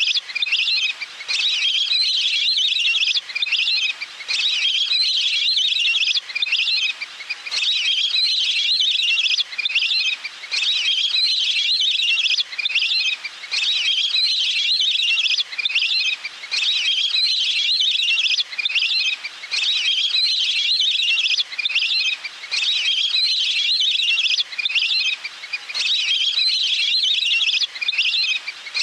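Recorded water-bird call played on a loop as a bird-catching lure: bursts of rapid, high chirping trills repeating about every two seconds with short gaps between, at an even loudness.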